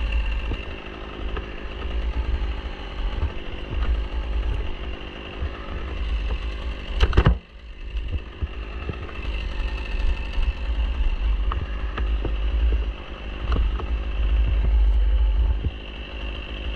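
Engine running steadily with a deep rumble underneath, and a single sharp, loud crack or knock about seven seconds in.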